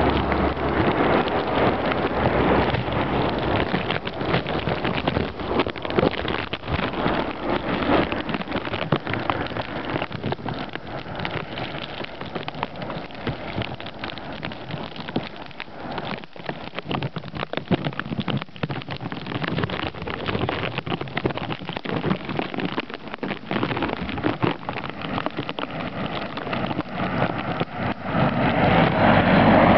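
Blizzard of wet snow and wind striking the microphone: a dense, crackling hiss much like heavy rain, with countless small ticks. Near the end a passing vehicle on the slushy road grows louder.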